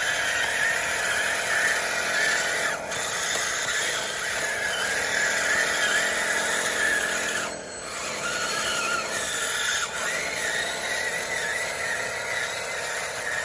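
Electric motors and hydraulic pump of a model RC bulldozer whining steadily, the pitch rising and falling as the machine works. The sound drops briefly a little past halfway through.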